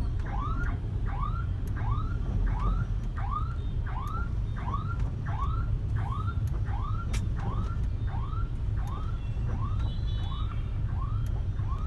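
A vehicle alarm sounding a short rising chirp over and over, about one and a half times a second, over a steady low rumble of traffic.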